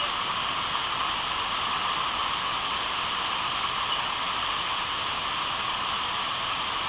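Steady rush of river water running through rapids.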